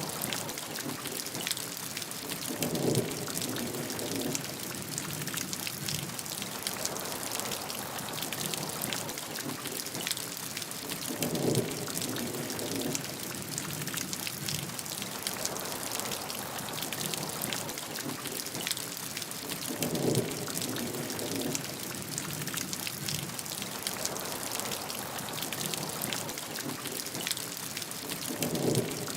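Steady rainfall with close pattering drops. A short, louder low rumble comes back about every eight or nine seconds, four times in all, at even spacing like a looped recording.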